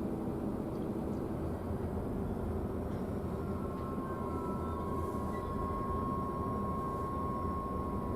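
Freight train rolling slowly during switching, a steady low rumble. A thin steady high tone joins about four seconds in.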